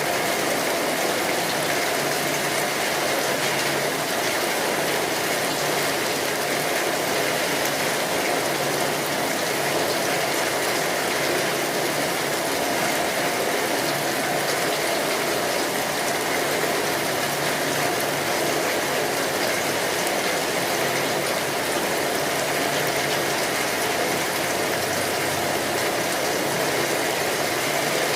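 Steady rainfall, an even dense hiss of drops with no let-up.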